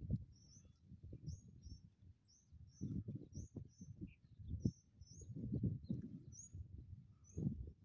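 A bird calling in short high chirps, about two a second, over low gusts of wind buffeting the microphone.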